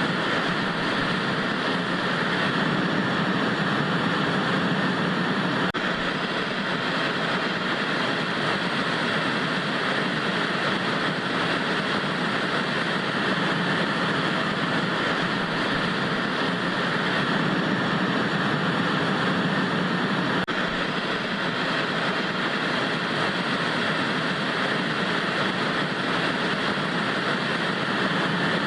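Vintage analog TV static: a steady, even hiss of noise that does not change in level.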